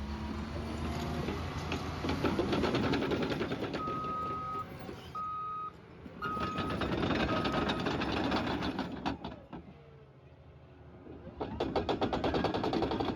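Bulldozer engine running, with a reversing alarm beeping four times, about a second apart, in the first half. The engine sound drops off abruptly around two-thirds of the way through and comes back near the end.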